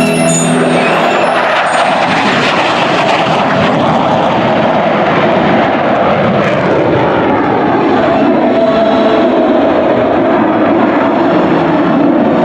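Loud, steady jet noise from an F-15 Eagle's twin Pratt & Whitney F100 turbofan engines as the fighter flies its demonstration. Music fades out in the first second.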